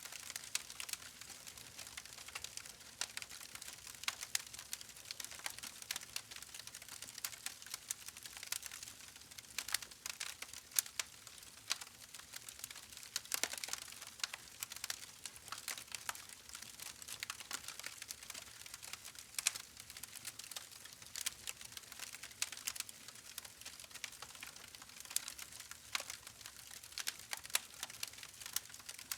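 Campfire burning, with a dense stream of irregular crackles and pops over a soft hiss of flame.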